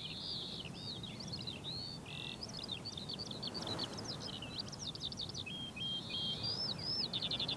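Several birds chirping and singing, with many short rising and falling calls and rapid trills, over a low steady background rumble.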